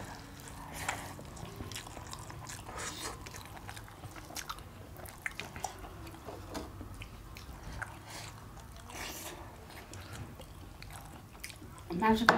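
Close-up eating sounds of people eating rice and mutton curry by hand: chewing and wet mouth smacks, with many small scattered clicks.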